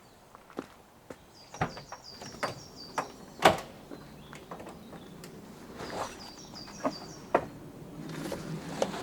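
Irregular knocks and clacks of objects being handled and set down, about a dozen, the loudest about three and a half seconds in. A bird sings a quick run of high, repeated chirps twice, once early and once around the middle.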